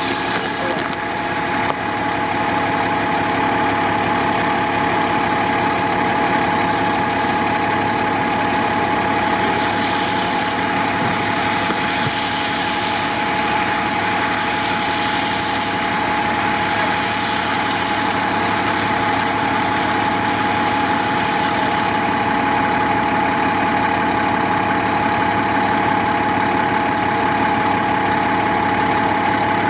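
Large vehicle engine running steadily at idle, with a constant whine over it, typical of a fire engine parked at a fire scene.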